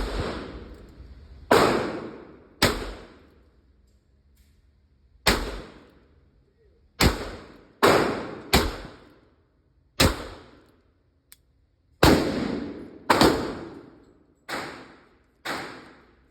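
.22 LR revolver firing about a dozen single shots at an uneven pace, one to two and a half seconds apart, each trailing off over about a second.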